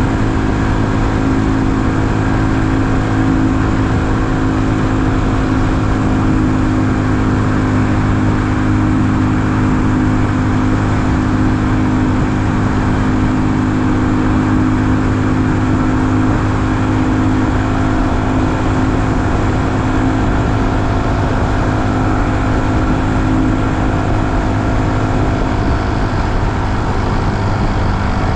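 2020 Honda Super Cub's single-cylinder engine running steadily at cruising speed during a ride, with no marked revving or shifting.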